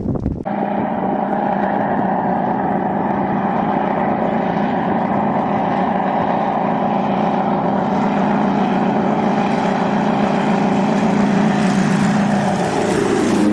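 Aircraft engine running with a steady drone that keeps two constant pitches, low and mid, cutting in abruptly about half a second in and changing just before the end.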